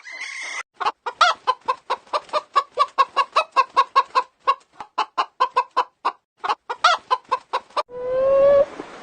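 A chicken clucking rapidly, a fast string of short clucks at about four or five a second, a couple of them louder. Near the end a different, drawn-out whining call begins.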